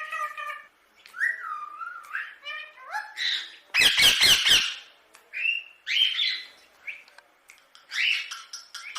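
Indian ringneck parakeet calling: a string of short chirps and sliding whistled notes, with a loud run of harsh squawks about four seconds in.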